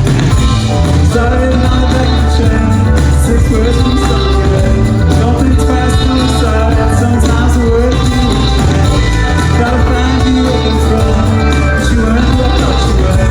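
Live band playing a song with a singer's voice over it, full and loud with a strong bass.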